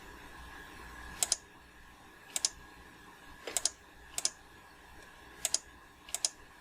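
Six separate clicks at a computer, each a quick double tick like a button going down and coming back up, spaced about a second apart, over a faint steady electrical hum.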